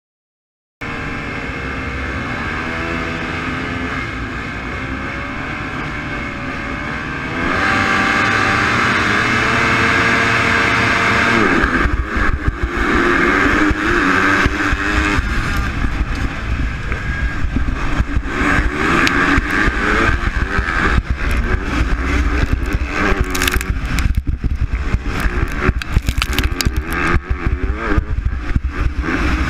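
A field of MX2 motocross bikes revving on the start line with wavering pitch, holding higher revs from about seven seconds in, then launching together around twelve seconds in into a heavier, deeper, rougher engine sound full of short crackles.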